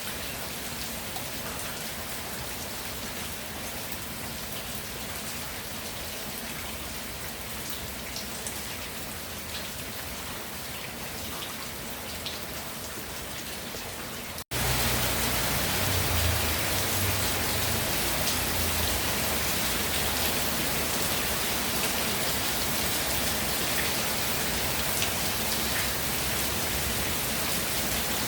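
Steady rainfall pattering on the ground, with scattered individual drop ticks. About halfway it cuts out for an instant, then comes back louder and fuller with a low rumble underneath.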